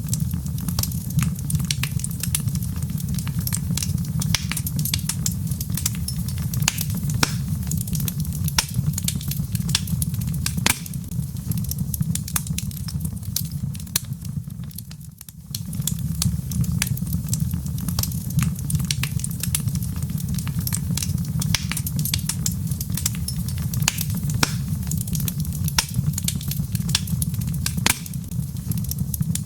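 Log fire crackling: dense sharp pops and snaps over a steady low rumble. The sound dips briefly about halfway through, then returns.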